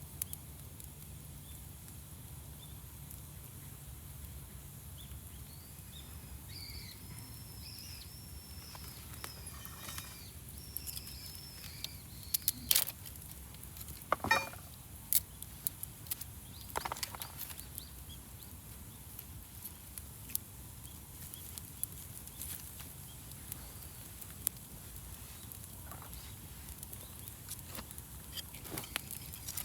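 Wood fire crackling, with scattered sharp pops, the loudest bunched about halfway through. A bird calls a run of short, high, arching notes for several seconds before the loudest pops.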